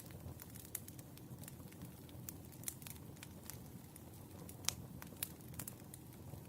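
Wood fire crackling: irregular sharp pops and snaps over a low steady rumble, the loudest pop a little before five seconds in.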